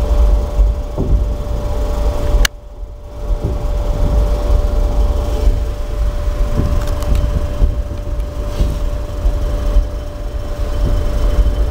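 Passenger train running at speed, heard from inside the coach: a steady low rumble with scattered knocks from the wheels and track and a faint steady whine. A sharp click about two and a half seconds in is followed by a brief drop in the rumble lasting about a second.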